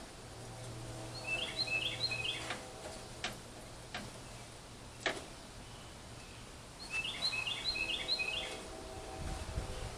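A bird singing two short phrases of quick, repeated chirping notes, about five seconds apart, with a few sharp clicks between them.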